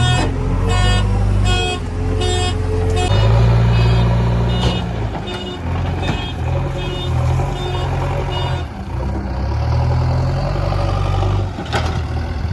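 Heavy diesel engines running steadily while a reversing alarm beeps over them for the first two-thirds, the beeps quickening to about two a second a few seconds in. A single sharp clank sounds near the end.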